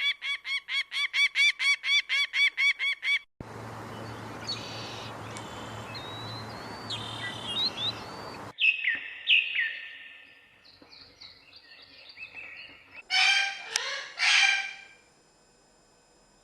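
Calls from several birds in turn: first a rapid run of repeated pitched calls, about five a second, which stops abruptly. Then thin chirps over a steady background hiss, a few short falling whistles, and two loud harsh calls about two-thirds of the way through.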